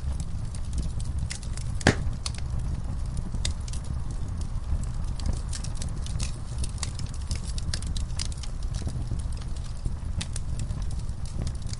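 Wood fire burning in a fireplace: a steady low rumble with frequent sharp crackles and pops, one louder pop about two seconds in.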